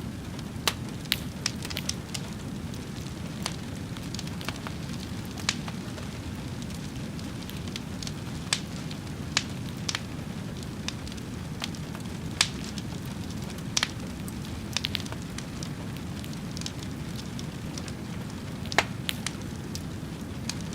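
Wood fire burning with a steady low rumble of flames and irregular crackles and pops of burning wood, a couple of pops standing out louder.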